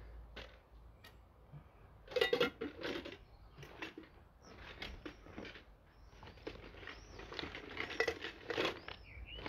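Rustling and light clattering of camping gear being handled and unpacked, with a louder clatter about two seconds in.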